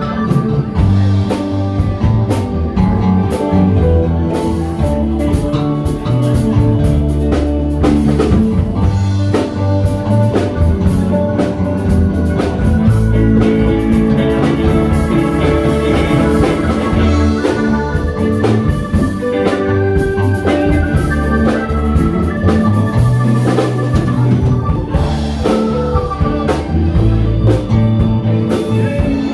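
A live band playing: electric guitar, organ and drum kit in a loud, steady instrumental passage.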